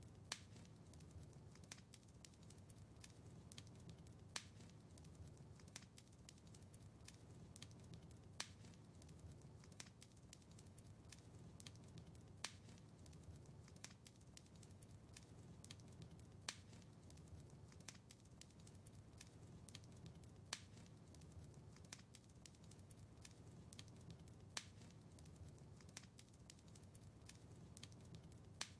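Faint wood fire in a fireplace crackling, with a steady low rumble of flames under many small crackles. A sharper pop comes about every four seconds.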